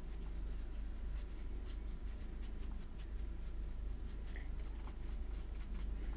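A watercolour brush working over paper: a run of faint, short scratchy ticks and strokes, over a steady low hum.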